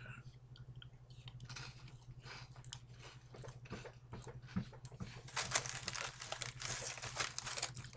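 A person crunching and chewing a baked buttered cracker dipped in hummus, the crunching getting louder and busier over the last few seconds.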